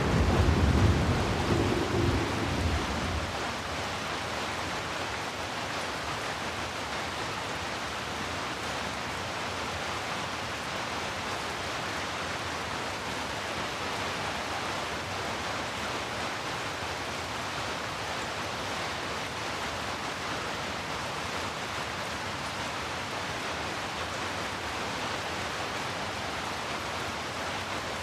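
Steady rain hissing evenly, with a low roll of thunder dying away over the first three seconds.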